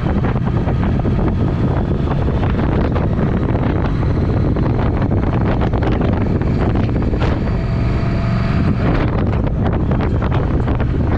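Triumph Speed Twin's 1200 cc parallel-twin engine running through a Vance & Hines exhaust while riding, with wind noise on the microphone. From about halfway through come many short, sharp crackles.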